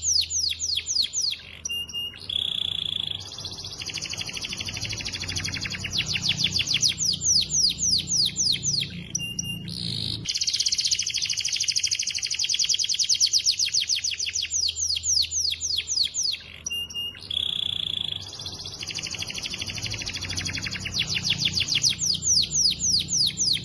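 Canary singing a loud, continuous song of rapid trills and rolls, many notes a second, broken by short pauses and brief held whistles.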